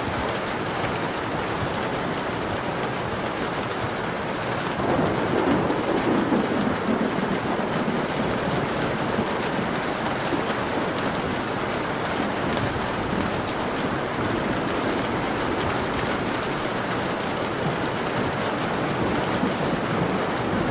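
Steady rain pattering on a window pane, with a low rumble of thunder swelling up about five seconds in and fading over the next few seconds.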